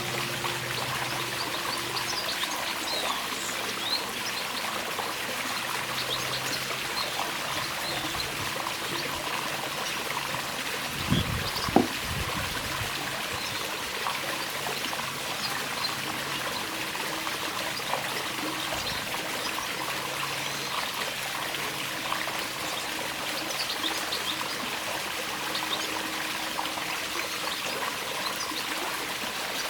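Water trickling steadily, with short bird chirps scattered through it. Two sharp knocks come close together near the middle.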